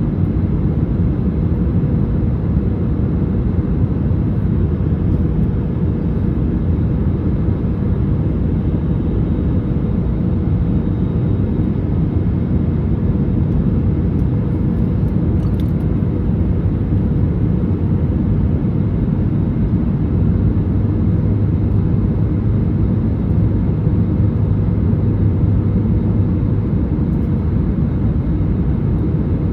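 Cabin noise inside an Airbus A321neo during descent: a steady rumble of airflow and its Pratt & Whitney PW1100G geared turbofan engines, with a faint steady hum over it. A low drone grows louder about twenty seconds in and falls back about six seconds later.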